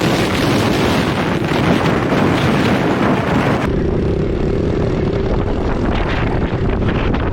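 Heavy wind buffeting on an unshielded microphone while riding a Husqvarna 501 dirt bike, its engine running under the rush. About halfway through the hissing thins out and a steady engine hum comes through for a couple of seconds.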